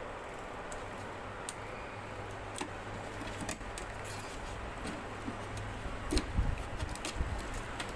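Light clicks and taps of hands handling a TV's T-con circuit board and its connectors on a workbench, with a cluster of louder knocks about six to seven seconds in, over a steady low electrical hum.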